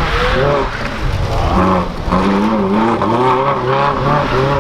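People talking close by over a steady low rumble of cars running around them.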